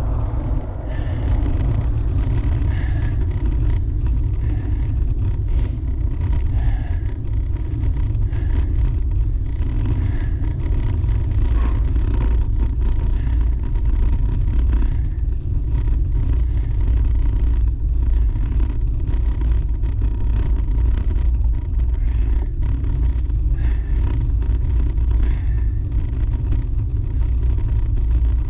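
Wind buffeting the microphone of a camera riding along on a road bicycle: a steady low rumble.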